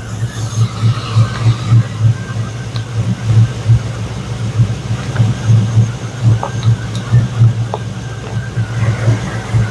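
2002 Chevrolet Silverado's engine idling warm, a low rumble that pulses evenly.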